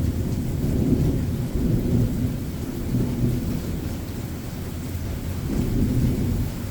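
Thunder rolling in a low rumble that eases after the start and swells again near the end, over a steady hiss of rain.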